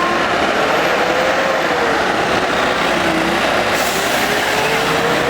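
Street traffic noise, with a faint tone slowly rising and falling underneath.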